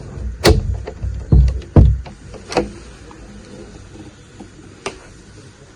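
A run of heavy thumps and knocks, four or five in the first three seconds, then a single sharp knock near the end, over a steady low hum.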